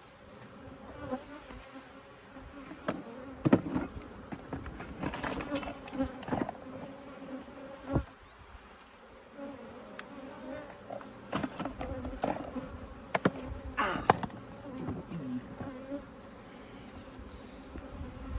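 Honeybees buzzing steadily around the opened hive, some flying close past the microphone, stirred up and defensive after the hive has been worked. A few sharp knocks stand out above the buzz.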